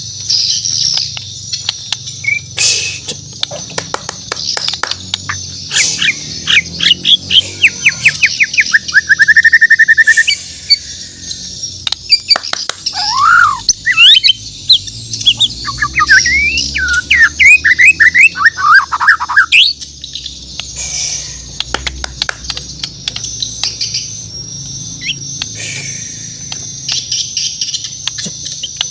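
A shama (murai batu Borneo) singing: loud, varied whistled phrases of rapid notes, one ending in a fast even trill, then a second burst of sweeping whistles and chirps past the middle. Continuous high-pitched chirping and sharp clicks fill the gaps between phrases.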